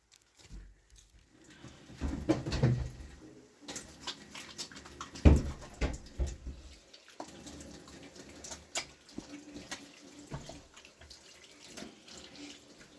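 Washing by hand in water: splashing and sloshing with scattered knocks, loudest about two and five seconds in.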